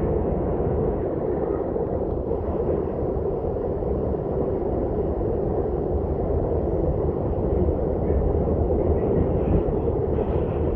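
R62 subway car running on the track, a steady rumble of wheels on rail with a loud midrange noise that holds level throughout.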